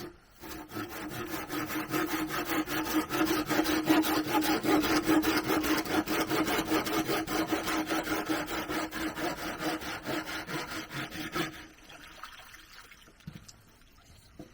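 Hand saw cutting through bamboo in rapid, regular back-and-forth strokes, stopping about eleven seconds in.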